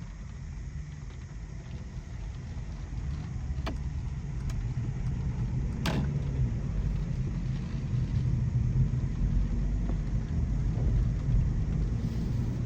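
Road and tyre noise of a Mercedes C300e sedan driving on wet city streets, heard from inside the cabin as a steady low rumble that grows gradually louder. A sharp click sounds about six seconds in, with two fainter ticks shortly before it.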